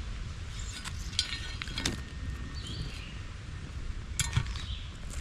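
Two bursts of sharp clicks and crackles, about a second in and again just past four seconds, from dry fire-lighting material being worked by hand for a fresh attempt at lighting a fire. A bird gives a short falling chirp between them.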